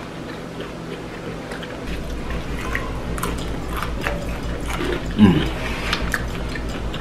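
Close-up eating sounds: chewing food, with wet mouth smacks and scattered small clicks and crackles. A low steady hum comes in about two seconds in.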